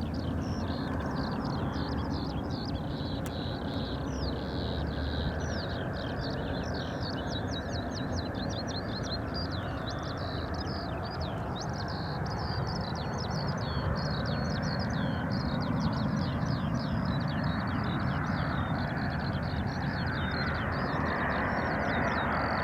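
Jet airliner on approach, a steady rumble that grows louder near the end, with birds chirping rapidly and continuously over it.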